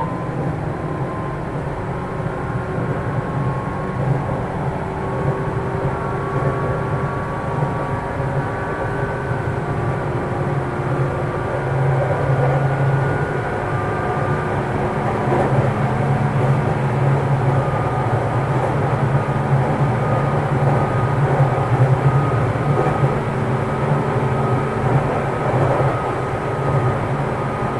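JR East 205 series electric train heard from inside its motor car, running at speed between stations. Wheels roll on the rails under the hum of its external-fan traction motors, a set of steady level tones, a little louder in the second half.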